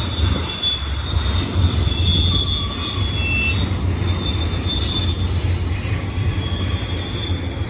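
A BNSF intermodal freight train rolls past with a steady low rumble of wheels and cars. High, thin wheel squeal comes and goes over the rumble.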